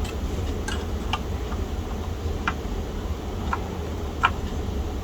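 A few sharp, separate clicks, about four spread over five seconds, from a floppy disk drive being handled with its cover off, over a steady low hum.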